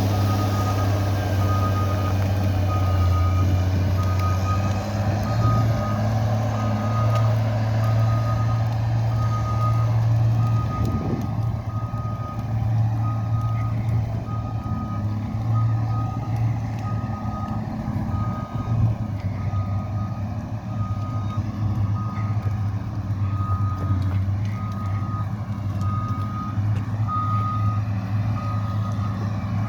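Heavy machine's engine running steadily while its reversing alarm beeps about once a second.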